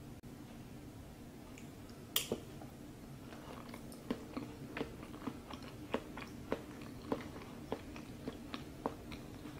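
Faint chewing of soy-braised potatoes: a sharp click a little after two seconds in, then soft, regular mouth clicks roughly every half second, over a low steady hum.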